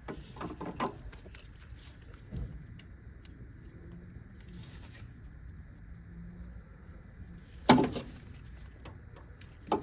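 Metal hand tools clinking and knocking against the engine while a 12mm bolt is worked loose: scattered clicks, a dull knock a couple of seconds in, and the sharpest, loudest click about three-quarters of the way through.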